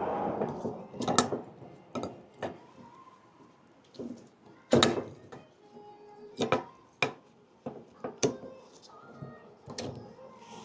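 Brake pads and their metal clips being fitted into a disc brake caliper: a run of irregular sharp clicks and clacks of metal on metal, the loudest about five seconds in.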